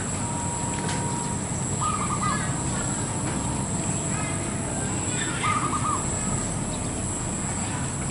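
Zebra dove (perkutut) cooing twice, each call a short run of quick notes, the two calls about three and a half seconds apart, over a steady background hiss.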